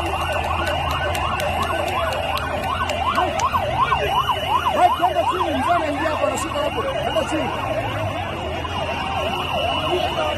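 Siren in a fast yelp, its pitch sweeping up and down about three times a second, loudest about halfway through, with a steady high tone sounding alongside.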